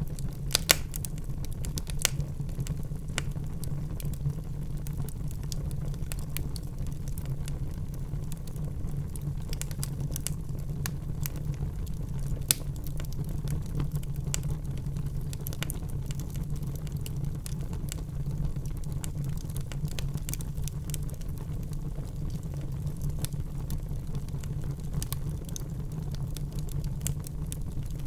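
Wood fire in a fireplace crackling: irregular sharp pops and snaps over a steady low rumble of the flames, with a few louder pops near the start and about halfway through.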